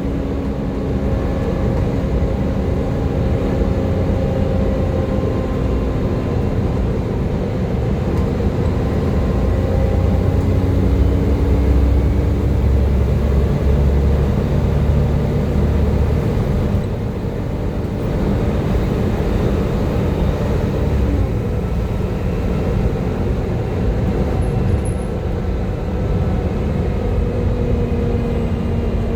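Volvo B7TL double-decker bus under way, its engine and drivetrain running with a steady whine over a low rumble, the 'Hoover' whine of these buses. The rumble grows louder about a third of the way in, and the whine drops in pitch briefly two-thirds through and again at the end.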